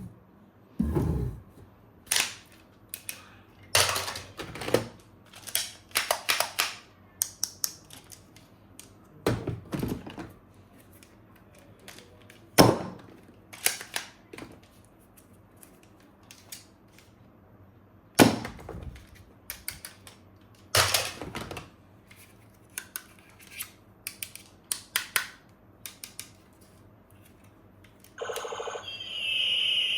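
Plastic toy guns and parts being handled: irregular clicks, snaps and knocks of plastic, a few sharper and louder than the rest. Music comes in near the end.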